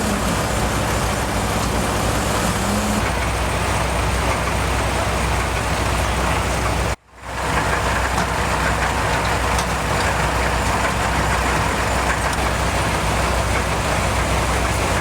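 A vehicle engine running steadily at idle, with a brief dropout in the sound about seven seconds in.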